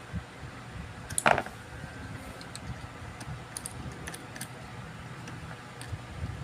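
A loud brief clatter of small hard objects being handled about a second in, then scattered light clicks, over a steady fan-like hum.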